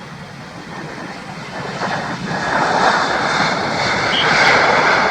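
Jet engines of an Airbus A321 airliner, a steady roar that swells sharply about two seconds in and stays loud as the aircraft passes close.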